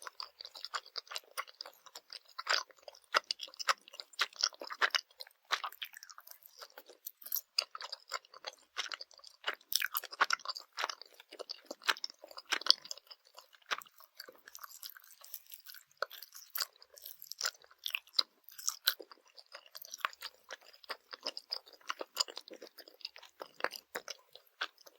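Close-miked chewing of Swedish gummy candy: a fast, irregular run of wet, sticky squelches and light crunches, with no talking.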